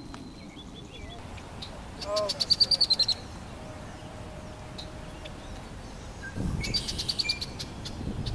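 Songbird singing outdoors: two loud, rapid trills of repeated high notes, about two seconds in and again about seven seconds in.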